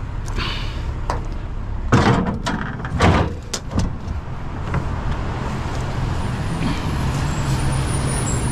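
Metal wire shelving clattering against a truck bed as it is loaded, a few sharp clanks about two to four seconds in, over the steady hum of the idling truck engine.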